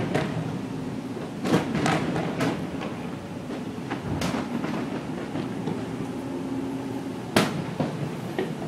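Fireworks going off in sharp, irregular bangs, heard from inside a boat's cabin over a steady low rumble; the loudest bang comes near the end.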